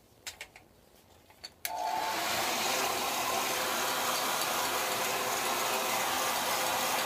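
A few light handling clicks, then about a second and a half in a handheld hot-air blower switches on and runs with a steady blowing hiss, heating the vinyl seat cover so it can be stretched.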